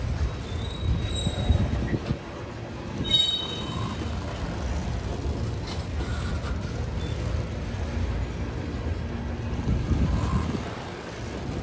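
Norfolk Southern freight train rolling past, a steady rumble of wheels on rail, with a brief high wheel squeal about three seconds in.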